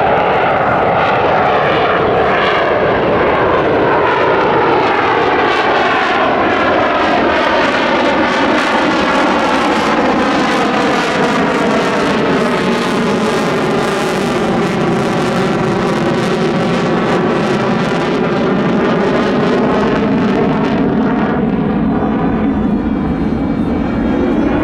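F-35B Lightning II's F135 jet engine running loud through a pass, a continuous rumble and hiss with a hollow, sweeping tone that dips and rises as the jet goes by, brightest about halfway through.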